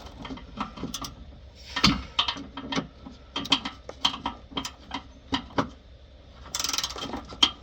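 Craftsman half-inch drive ratchet clicking in short strokes as a muffler mount bolt is loosened, with a harder knock about two seconds in and a brief dense rasp near the end.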